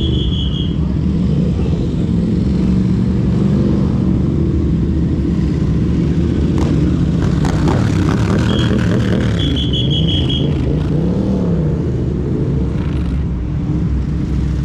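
Motorcycle engines running and revving in a race paddock, a steady low rumble with pitches wavering up and down. A short, high electronic beeping sounds near the start and again about nine seconds in.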